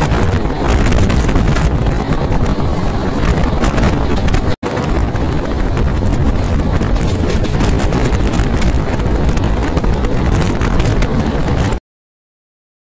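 Express train running at speed, heard from on board: a steady low rumble with wind buffeting the microphone. The sound cuts out for an instant about four and a half seconds in and goes silent for about a second near the end.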